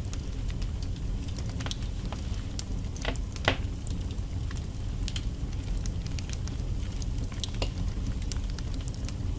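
Wood fire burning in a fireplace: a steady low rumble of flames with scattered crackles and pops from the logs, the sharpest pop about three and a half seconds in.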